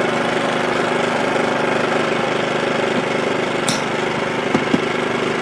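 WEN 2350-watt inverter generator's small four-stroke engine running at a steady speed after the fitting of a high-altitude carburettor kit. There is a brief click and a couple of small knocks about two-thirds of the way through.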